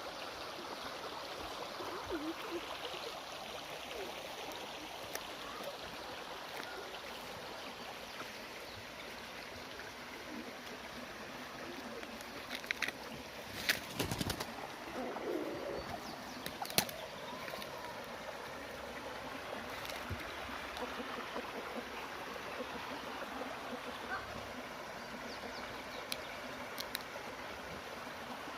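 Birds calling over a steady rush of running water, with a few sharp clicks and knocks about halfway through.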